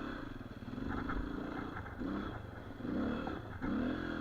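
Dirt bike engine running and being revved up and down in short blips while riding over ice.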